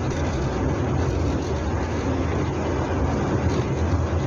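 Hillman Super Minx four-cylinder engine and road noise heard from inside the car while cruising: a steady low rumble.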